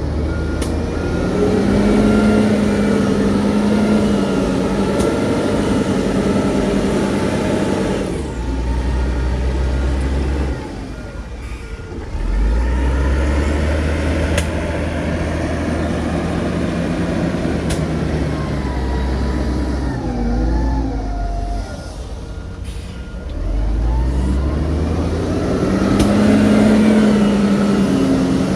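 Heavy diesel earthmoving machinery working: engines rising and falling in pitch as they rev and drop back under load. A reversing alarm beeps at a few points.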